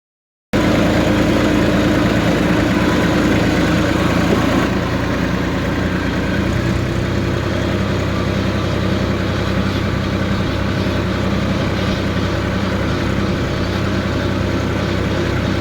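Tractor engine running steadily, an even drone with a clear low hum, a little quieter from about five seconds in.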